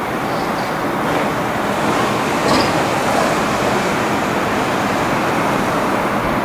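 Train running along the platform: a steady rushing rumble with no clear pitch or sharp knocks.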